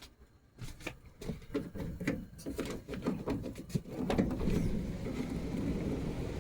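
A quick run of irregular clicks and knocks, like things being handled or a latch and door being worked, then from about four seconds in a steady low wind rumble.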